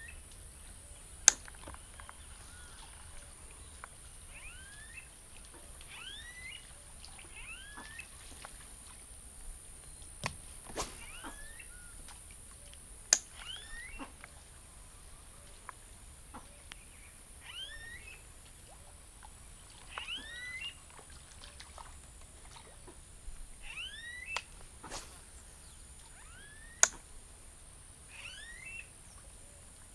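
Birds calling from the reeds in repeated short rising chirps, in small groups every second or two, over a steady high hiss. Three sharp clicks, about thirteen seconds apart, are the loudest sounds.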